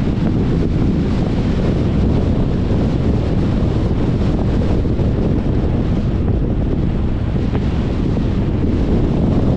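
Steady wind rushing over the microphone of a moving car, mixed with the car's road noise.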